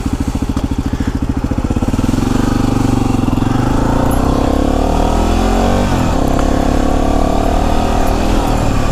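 Yamaha WR250R's single-cylinder 250 cc four-stroke engine idling with even pulses, then pulling away about two seconds in, its pitch climbing as it accelerates, with a gear change about six seconds in.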